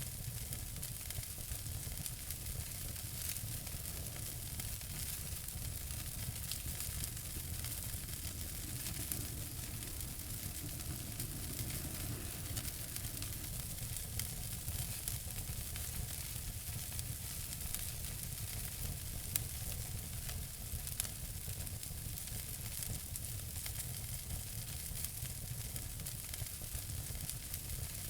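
Fireplace fire crackling steadily: a constant hiss and low rumble peppered with small crackles, with two louder pops about two-thirds of the way through.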